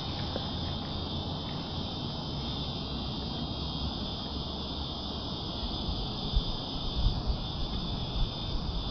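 A steady, unbroken high buzz of a cicada chorus in the creekside trees. Under it is a low rumble of wind on the microphone, which turns gusty in the last few seconds.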